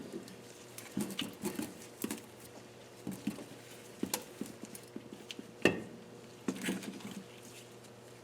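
Irregular light clicks and taps of metal tools and small valve parts being handled on a Nissan KA24DE cylinder head during valve removal, with one sharper knock about five and a half seconds in.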